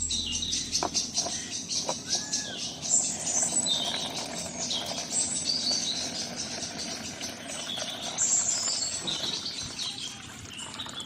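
Small birds chirping, many quick high-pitched calls and warbles, over a faint steady background hiss.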